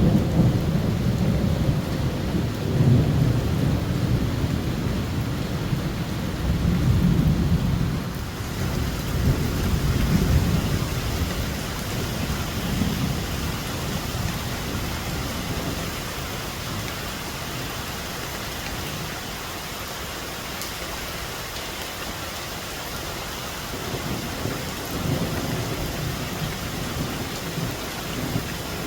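Heavy rain pouring steadily in a thunderstorm, under a deep, uneven low rumbling that is strongest in the first half, dies down after about thirteen seconds and swells again briefly near the end.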